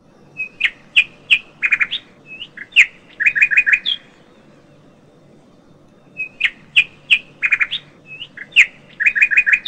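Birdsong: a phrase of sharp chirps and quick runs of notes, heard twice in the same shape with a pause of about two seconds between, as a repeated recording would be.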